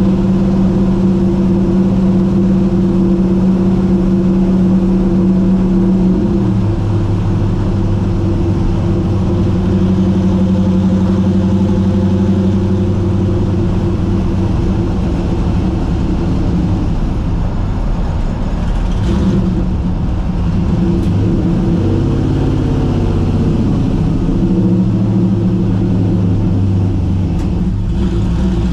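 LS V8 engine swapped into a 1950 Pontiac running with a steady drone, its pitch dropping about six seconds in and briefly rising and falling again a little past the middle.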